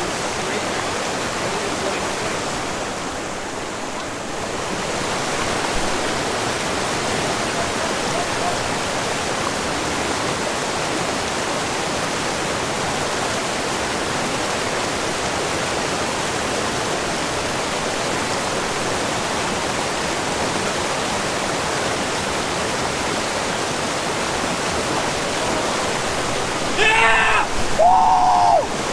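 Waterfall rushing steadily. Near the end there is a short, loud pitched call, most likely a shout.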